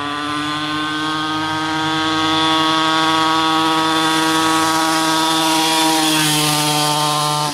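Small motorcycle engine buzzing at high, nearly steady revs, growing louder as it comes closer, with a slight dip in pitch near the end before the sound drops off suddenly.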